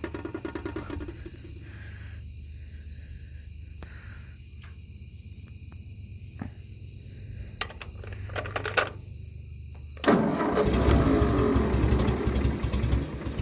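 1963 Ford 2000 tractor engine running at a low idle, just got going after sitting five years, now on a new carburettor. About ten seconds in, the sound suddenly becomes much louder and harsher for the last few seconds.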